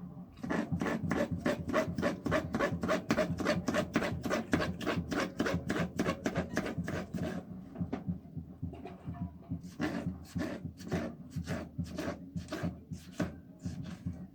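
Hand food-preparation strokes: fast, even rasping strokes, about four a second, in two runs with a short pause just past halfway.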